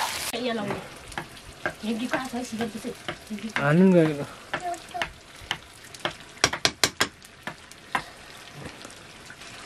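Pork curry frying in a pan and being stirred, with scattered sharp knocks and a quick run of them about six and a half seconds in. A short voiced sound, rising then falling in pitch, is the loudest thing, near the middle.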